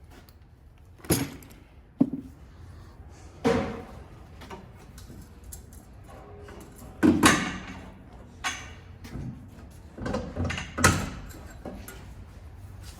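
Scattered metal clanks and knocks of tools and suspension parts as the rear suspension is lowered to drop out a broken coil spring. About seven separate hits, the loudest a little after seven seconds and again near eleven seconds.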